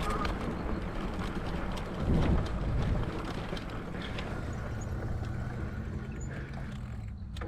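Electric mountain bike riding along a dirt trail: a steady low hum with wind rumbling on the microphone and small clicks from the ride, swelling briefly about two seconds in.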